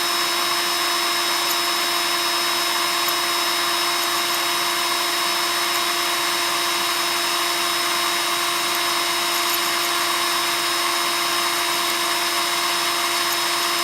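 Electric drill running steadily at one speed, a constant motor whine with no change in pitch or load.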